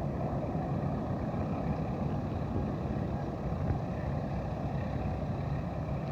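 Passenger train running, a steady rumble of wheels on rail with a rushing noise throughout.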